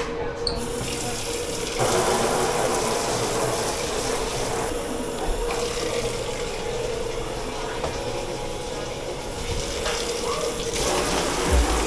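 Water running from a tap into a sink, growing stronger about two seconds in and then flowing steadily, over a steady hum.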